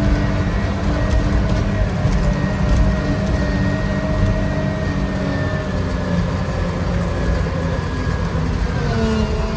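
Motor vehicle engine running over a steady low rumble. Its pitch sinks slowly through the middle and drops further near the end.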